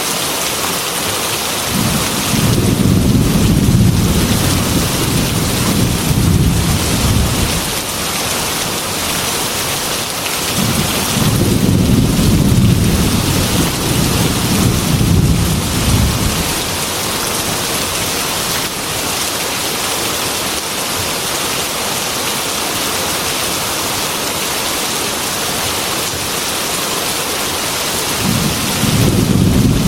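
Heavy rain pouring steadily, with a long roll of thunder about two seconds in, a second about eleven seconds in, and a third starting near the end.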